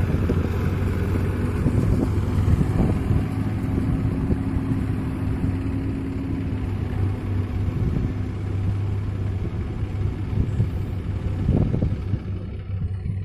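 Sonalika 750 turbo tractor's diesel engine running steadily under load while pulling a fully loaded trolley, a constant low drone, with a brief swell near the end.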